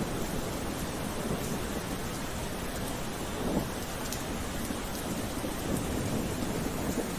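Steady rain falling, an even hiss with a low rumble underneath and scattered faint drop ticks.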